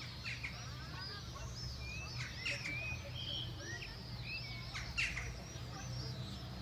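Small birds chirping, with many short high chirps overlapping, over a steady low background hum.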